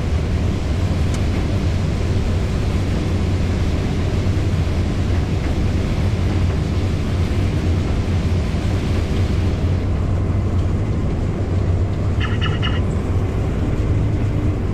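Combine harvester running steadily while harvesting corn, heard from inside the cab as a strong low drone with a higher hiss that drops away about ten seconds in. A brief electronic beeping sounds near the end.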